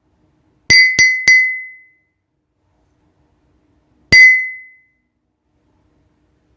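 Clinking sound effect: three quick ringing clinks about a third of a second apart, then a single one about three seconds later, each with a bright ring that fades in about half a second.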